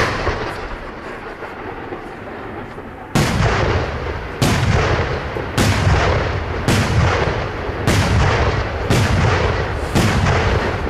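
Aerial firework shells bursting: one sharp bang at the start, then from about three seconds in a steady run of seven heavy booms, a little over one a second, each trailing off in a low rumbling echo.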